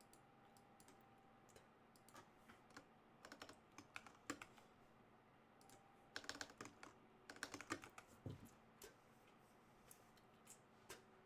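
Faint computer keyboard typing: short bursts of keystrokes separated by pauses.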